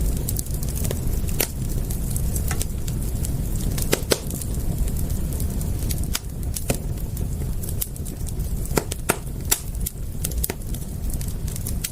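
Wood fire crackling: irregular sharp pops and snaps, several a second at times, over a low steady rumble.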